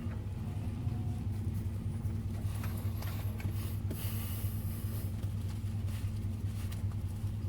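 Car engine idling, a steady low hum, heard from inside the vehicle, with a few faint light taps.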